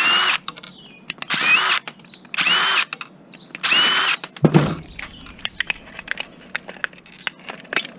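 Cordless drill-driver running in four short bursts of about half a second, each with a whine that rises as the motor spins up, backing screws out of an electronics casing. Then a thump and scattered small clicks of parts being handled.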